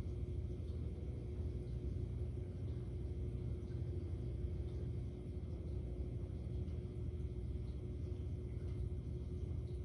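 Steady low rumble with a constant hum a little higher up, unchanging throughout, with no passing or revving engine heard.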